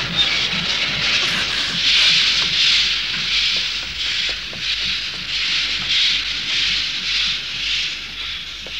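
Cartoon steam locomotive chuffing as it pulls away: regular hissing puffs about one and a half a second, with soft low beats under them, growing fainter near the end.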